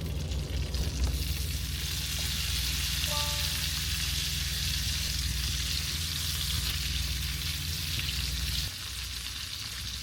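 Vegetables frying in butter in a pan, a steady sizzling hiss, over a low steady hum that drops away near the end. A short beep sounds about three seconds in.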